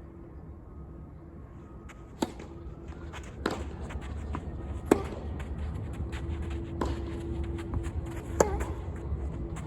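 Tennis rally: five sharp racket strikes and ball bounces, one every second or two, over a steady low outdoor rumble.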